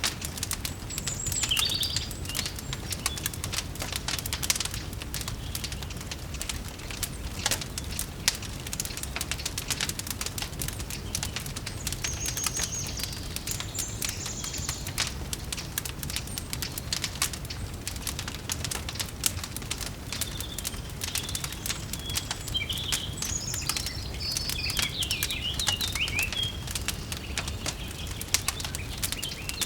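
Fireplace crackling with frequent small pops over a low steady rumble, with birds chirping now and then, most busily in the last third.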